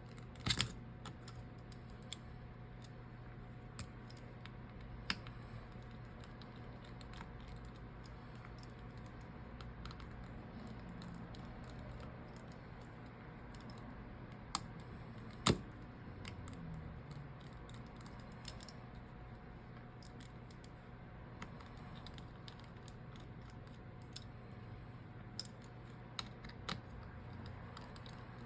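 Scattered small clicks and taps of a screwdriver and tools against a phone's frame as screws are taken out, the loudest about half a second in and about 15 seconds in, over a steady low hum.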